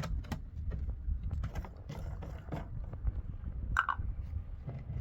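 Low wind rumble buffeting the microphone, with irregular crunching and scraping clicks throughout and a brief higher-pitched sound a little before four seconds in.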